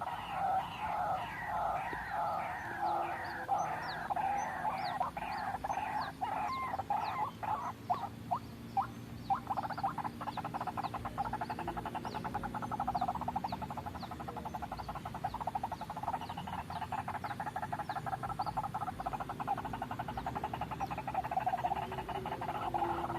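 White-breasted waterhens calling: repeated croaking 'kruak' phrases, about two a second, turning about ten seconds in into a fast, continuous stuttering rattle that returns to the slower phrases near the end. Short high chirps sound over the top.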